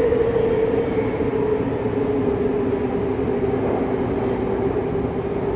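Saitama Railway 2000 series train running through a subway tunnel, heard from inside the car: steady wheel and track rumble under a motor whine that falls slowly in pitch as the train slows.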